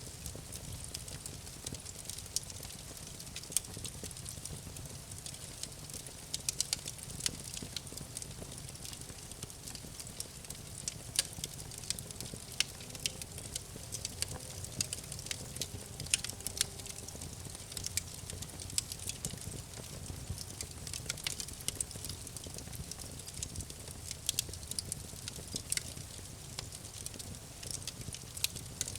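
Campfire crackling: frequent sharp pops and snaps from burning wood over a steady low rumble and hiss of the flames.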